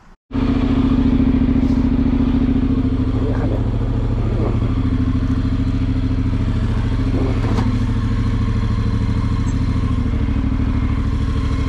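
Honda NC750X parallel-twin motorcycle engine idling steadily, cutting in suddenly near the start.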